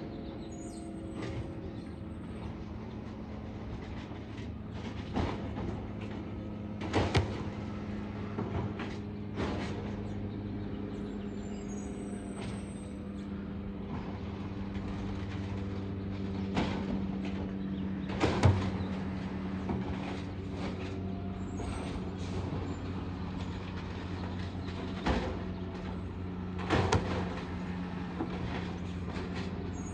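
Garbage truck's diesel engine running steadily, with sharp metallic clanks and bangs every few seconds and a few faint high squeaks.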